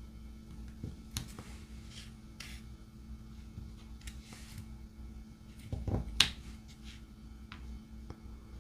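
Scattered small clicks and taps of a diamond painting drill pen picking up resin drills and pressing them onto the canvas, with one sharper click about six seconds in.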